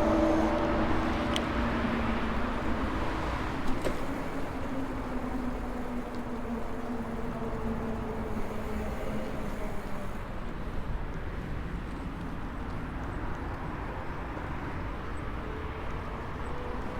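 Maxtron Mule folding e-bike riding along: wind and tyre rumble with the electric motor's low whine, which slowly drops in pitch and fades. A sharp click about four seconds in.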